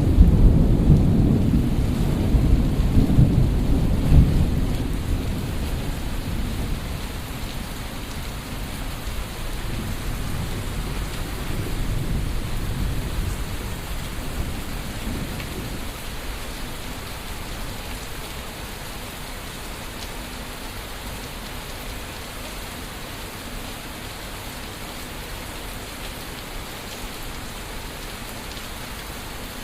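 Thunderstorm: a loud low rumble of thunder that fades away over about fifteen seconds, with a smaller swell of rumbling around ten seconds in, over the steady hiss of falling rain.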